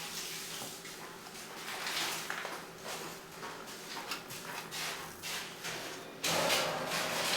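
Irregular scraping, tapping and rustling of bakery work by hand, growing louder and harsher about six seconds in.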